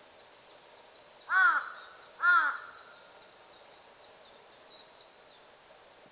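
Jungle crow (large-billed crow) giving two loud, harsh caws about a second apart. A faint high twittering runs behind.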